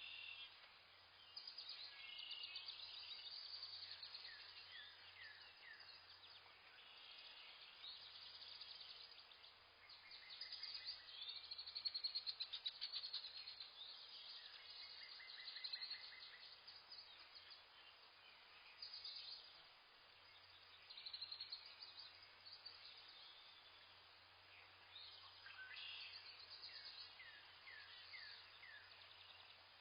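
Several wild birds chirping and trilling faintly, a mix of short high calls and rapid trills.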